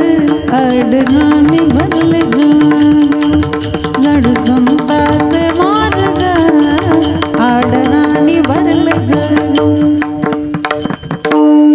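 Marathi kirtan devotional music: a melody sliding up and down in pitch over a steady drone, with hand-drum beats throughout. A loud held note comes in near the end.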